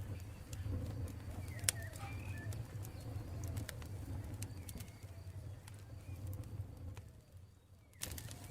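Campfire crackling with scattered pops over a steady low rumble, one sharp pop about two seconds in, while birds call faintly in repeated cooing phrases. The sound fades almost away about a second before the end, then cuts back in abruptly.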